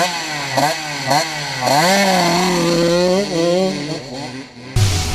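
Two-stroke dirt bike engine revved in quick blips, about two a second, then held at higher revs for a couple of seconds before dropping back. Electronic dance music with a heavy beat cuts in just before the end.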